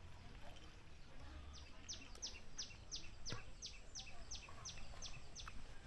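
A songbird calling a rapid series of about a dozen high notes, each sliding quickly downward in pitch, at roughly three a second, with a few faint knocks in the background.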